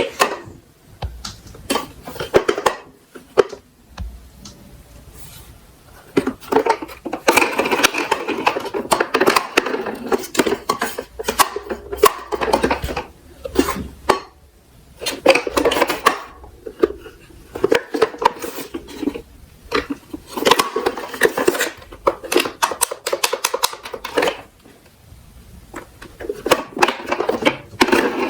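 Small plastic toy garbage trucks rolling and clattering against a slope, each other and scattered toy garbage: irregular rattling and clicking in bursts, with short quieter gaps.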